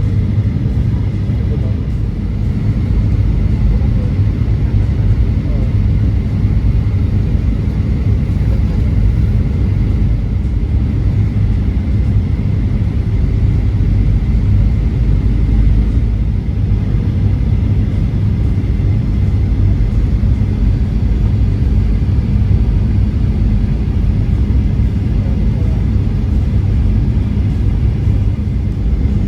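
Airliner cabin noise heard from a passenger seat of a Spring Japan Boeing 737-800: a steady, loud low rumble of engines and airflow.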